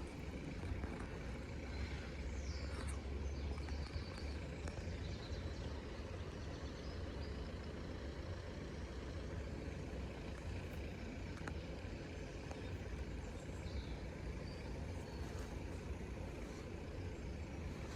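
Steady low outdoor background rumble, with a few faint bird chirps.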